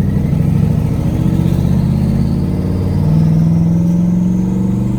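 Twin-turbo 4.8-litre LS V8 in a Ford Ranger running while the truck is driven. Its note steps up about three seconds in as the throttle opens, with a faint rising whistle above it, then eases off at the end.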